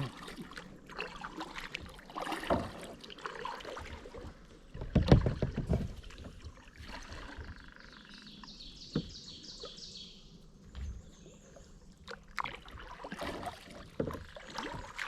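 Kayak paddling: paddle blades dipping and splashing in the water and dripping, with a heavier knock-and-splash about five seconds in. A rapid high trill sounds in the middle.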